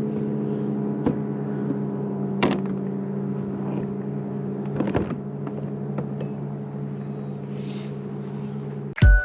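A boat motor running steadily in a low, even drone, with a few light knocks here and there; it cuts off suddenly near the end as music begins.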